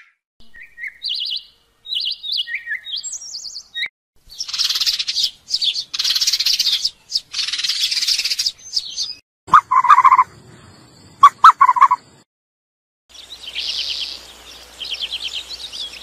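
Small birds chirping and calling in a run of separate bursts: short high chirps at first, then harsher, scratchier calls, a few lower calls about two-thirds through, and quick trills near the end.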